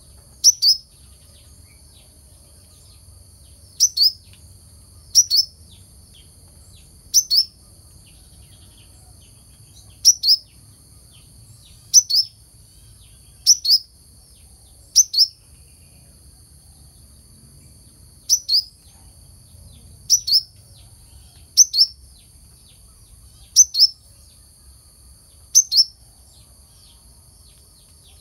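Brown-throated sunbird (kelicap mayang kelapa) calling: short, sharp high chirps, often in quick pairs, repeated about every one and a half to two seconds. A faint steady hiss and a low rumble run under the calls.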